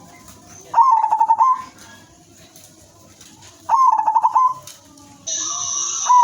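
A female zebra dove cooing, two short song phrases a few seconds apart. Each starts with a rising note and breaks into a quick run of staccato coos. A steady high hiss starts near the end.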